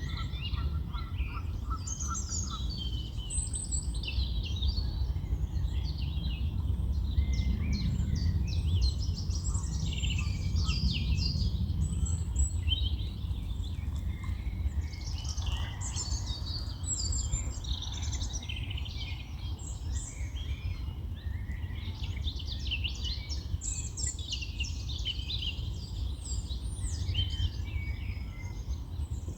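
Several songbirds singing and calling at once, quick overlapping chirps and trills, over a steady low rumble.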